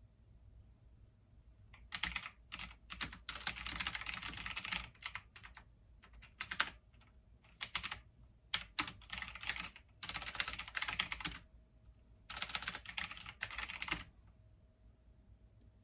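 Computer keyboard typing in several bursts of rapid key clicks, starting about two seconds in and stopping near the end.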